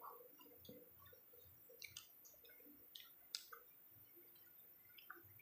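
Near silence, broken by faint, scattered clicks and smacks of chewing as pizza is eaten.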